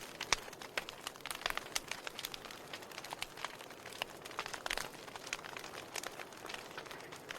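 Wood fire crackling: irregular sharp pops and snaps from burning firewood over a soft steady hiss.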